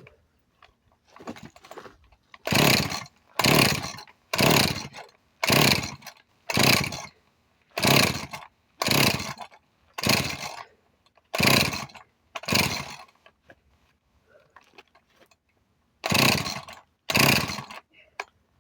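Husqvarna 346XP chainsaw's recoil starter pulled over and over, about one pull a second, ten times, then after a short pause twice more; each pull is a brief rasping whirr and the engine never catches, as the saw does not run despite having spark.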